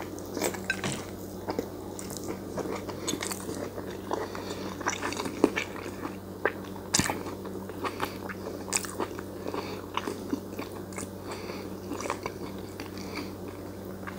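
A person biting into and chewing a soft taco filled with chicken, bell peppers, cheese and tomato: irregular wet mouth clicks and small crunches, over a steady low hum.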